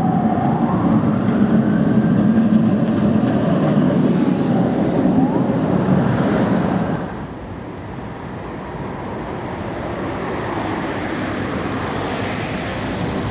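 A tram running past, loud for about seven seconds, then dropping to a quieter rumble.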